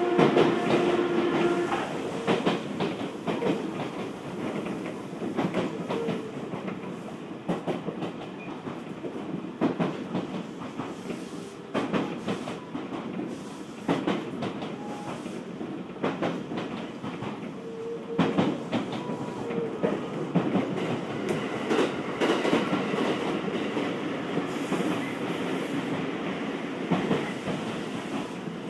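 Odakyu 1000-series electric train car running, heard from inside the car, with repeated clicks and knocks of the wheels over rail joints and points and a few short squeals. The overall sound sinks gradually as the train slows on its approach to its final stop.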